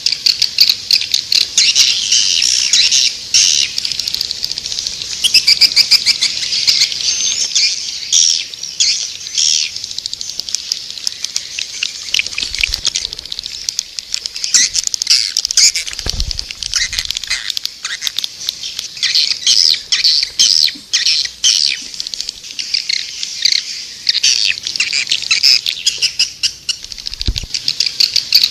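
Swiftlet lure call: a dense, continuous chorus of high twittering swiftlet chirps, with quick clicks mixed among them.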